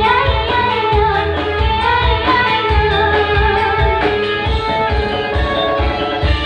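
Campursari music: a singer's ornamented, gliding melody over a band with a steady low drum beat.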